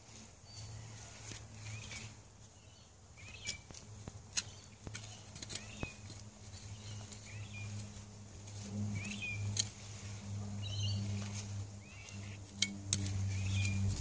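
A bird calling over and over in short chirps, one every second or two, with a few sharp clicks and a low steady hum that grows louder about halfway through.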